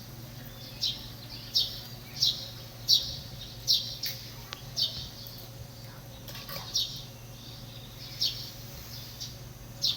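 Birdsong: a bird repeats a short, high chirp about once a second, over a steady low hum.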